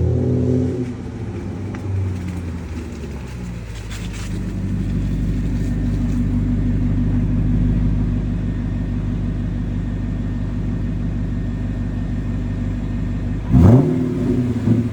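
Volvo XC90's Yamaha-built 4.4-litre V8 running at low revs through a custom Magnaflow exhaust with the middle resonator and rear muffler deleted, giving a deep, steady exhaust note. Near the end comes one quick, sharp rev blip.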